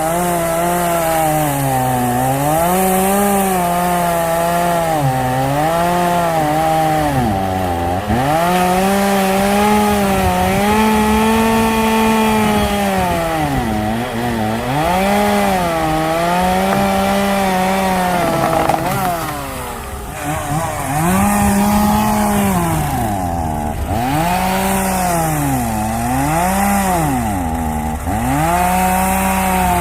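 Gasoline chainsaw cutting firewood logs at full throttle, its high engine note sagging each time the chain bites into the wood and climbing back as it frees, over and over. Around two-thirds of the way through the engine drops off briefly and is then brought back up.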